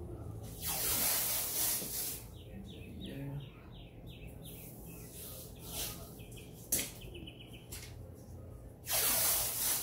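A bird chirps a quick run of about eight short high notes, then a shorter run a few seconds later. Two louder rough rasping noises, each a bit over a second long, come about a second in and near the end, with a single sharp click in between.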